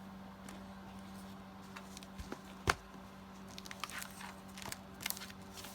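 Quiet paper handling: folded paper tags rustling and tapping as they are slid into a paper journal pocket, with one sharper tap about two and a half seconds in. A faint steady hum runs underneath.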